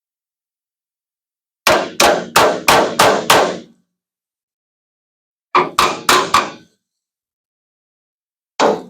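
Body hammer striking the dented steel sheet metal of a pickup truck bed, hammer-and-dolly work to bring the panel back into shape: a quick run of six blows, then four, then a single blow near the end, each with a short ring.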